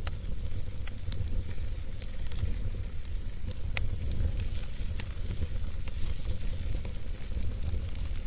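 Wood fire burning in a fireplace: a steady low rumble and hiss with scattered sharp crackles and pops, about one every second or two.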